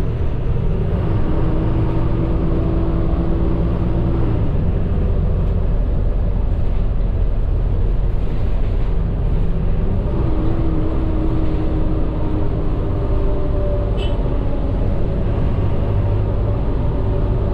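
Engine and road rumble inside the cabin of a medium bus on the move, a steady low drone. A humming tone rises out of it twice, about a second in and again about ten seconds in.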